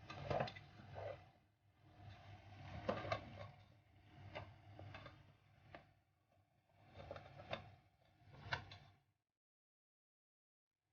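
A spoon knocking and scraping in a cooking pan as the tomato-and-spice masala is mixed or the chicken is stirred in, several faint strokes over a low steady hum, stopping abruptly near the end.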